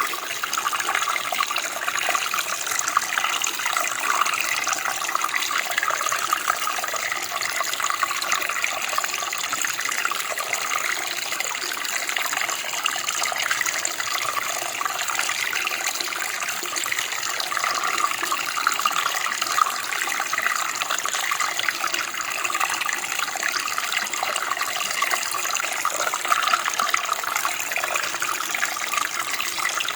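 Running water, a steady splashing flow of a stream.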